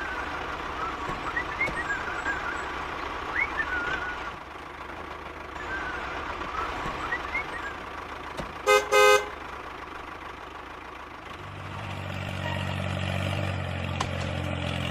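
Birds chirp in the background, then a vehicle horn gives two short toots about nine seconds in. From about eleven seconds a vehicle engine runs with a steady low hum.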